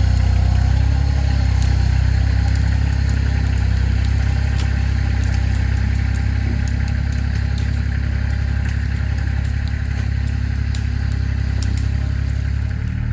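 Compact tractor's diesel engine running at a steady speed, with a low, even drone that holds without revving.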